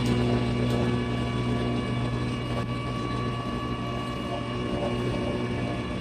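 Sunby 130-I mechanical deboning press running, a steady machine drone with a constant low hum.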